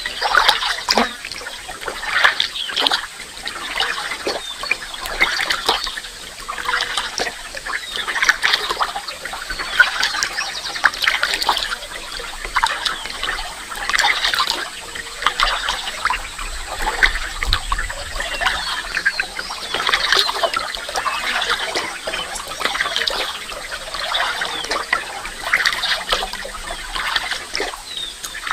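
Dense chorus of many birds calling and singing at once, a continuous tangle of overlapping chirps and chatter.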